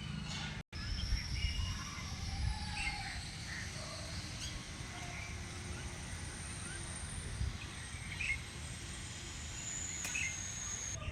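Several birds chirping and calling, short chirps mixed with a few long high thin notes, over a steady low rumble of outdoor background noise. The sound drops out completely for a split second under a second in.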